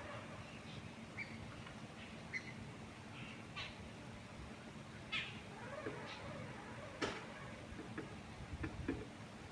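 Steady wind in the trees with scattered short bird chirps and calls every second or so. A few sharp clicks come in the second half, the loudest about seven seconds in.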